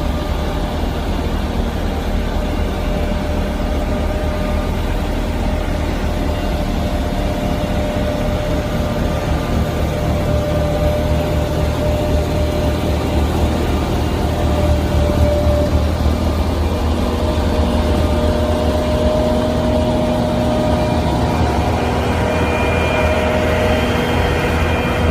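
Railway rotary snowplow running, a loud steady heavy-engine drone.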